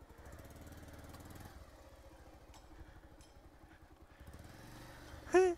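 Motorcycle engine running at low revs, going quieter about a second and a half in and picking up again near the end.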